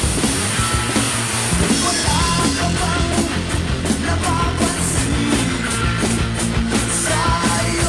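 Rock music with a drum kit played along to it, its cymbals struck in a steady beat over bass and guitars. A pitched melody line comes in about two seconds in.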